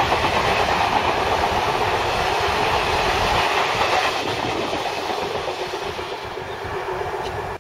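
A freight train of covered wagons rolling past, its wheels running on the rails. The noise fades as the last wagon goes by about four to six seconds in, then cuts off suddenly near the end.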